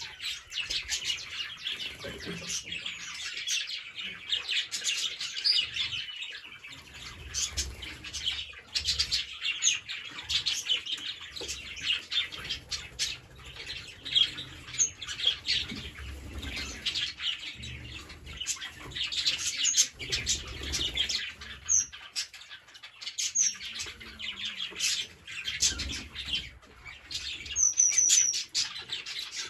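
Green parrots chirping and chattering continuously, with short high squeaky calls now and then in the second half.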